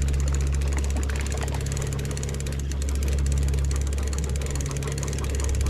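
Boat engine running steadily, a constant low drone with a steady hum under it.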